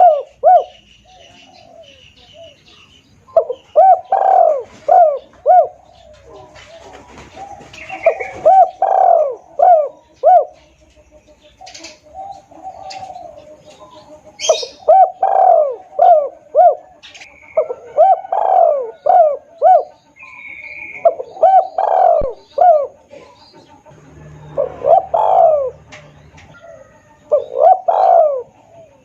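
Spotted dove (tekukur) cooing: the loud, clear lure call, in repeated phrases of several coos a few seconds apart. Thin, higher chirps of other small birds sound between the phrases.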